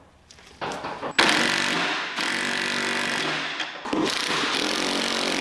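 Handheld power tool running with a steady motor whine, starting about a second in after a few faint clicks and easing off briefly twice before running on.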